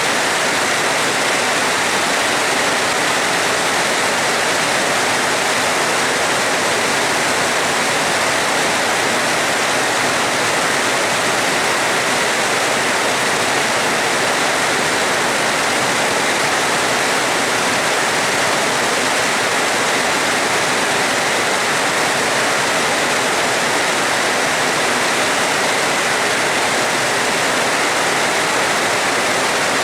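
Steady heavy rain, a dense even hiss of water with no let-up and no thunder.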